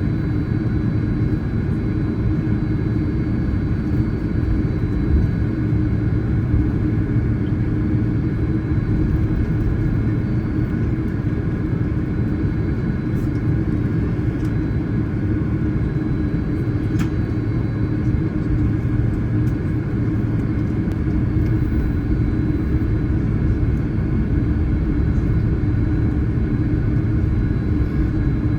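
Steady low rumble with a constant hum inside a jet airliner's cabin on the ground before takeoff, with a few faint clicks.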